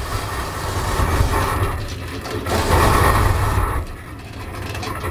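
A four-wheel drive towing a boat trailer through a shallow creek: a steady low engine rumble under rushing, sloshing water noise that swells about two and a half seconds in and eases off near the end.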